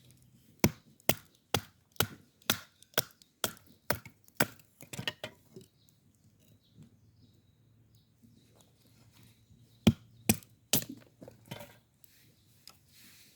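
Wood being chopped or split for a campfire: a steady run of about ten sharp knocks, roughly two a second, then a pause and three more hard strikes near the end.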